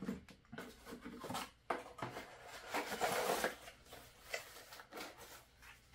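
Cardboard box and packaging being handled: scattered light taps and knocks, with a rustle about three seconds in.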